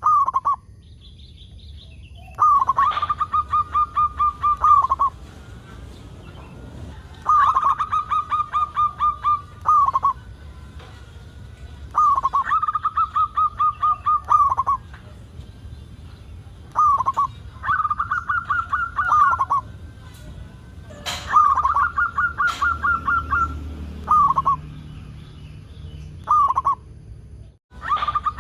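Zebra dove (perkutut) cooing in repeated phrases of rapid, evenly pulsed notes, each about two seconds long, a few seconds apart. There is a sharp click about 21 seconds in.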